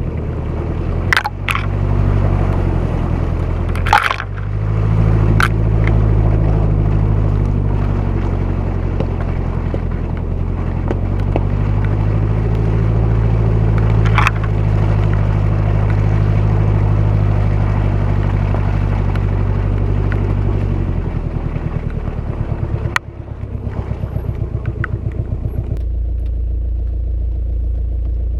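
A 1997 Jeep Cherokee XJ's VM Motori 2.5 turbo diesel four-cylinder runs steadily under load on the trail, with several sharp knocks and scrapes from the vehicle working over the ground. Near the end the engine note drops suddenly and settles to a lower, pulsing run.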